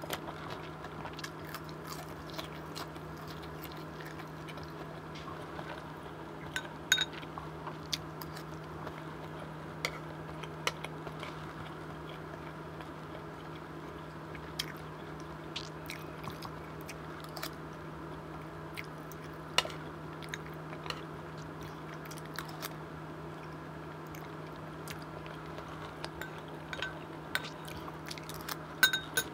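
Close-miked eating: chewing and biting into a breaded katsu cutlet and curry, with scattered sharp clicks of a spoon against ceramic bowls, over a steady low hum.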